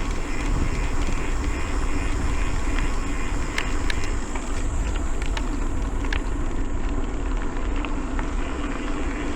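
Wind rushing over a handheld camera's microphone while riding a mountain bike along a road, with the tyres humming steadily and a few sharp clicks from the bike or the hand on the camera.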